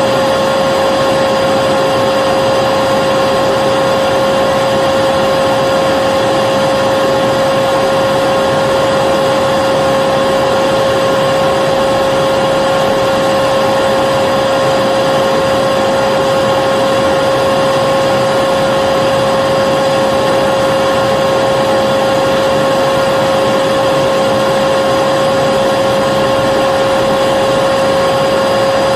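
Vacuum cleaner motor running continuously at a constant speed: a steady rushing hiss with a strong high whine.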